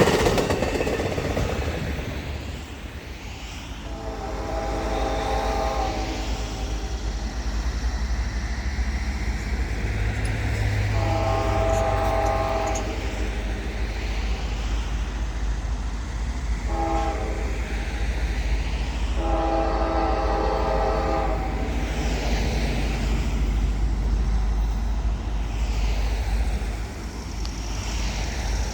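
A locomotive's air horn sounds the grade-crossing signal: long, long, short, long. A train runs past underneath it with a steady rumble and wheel noise on the rails.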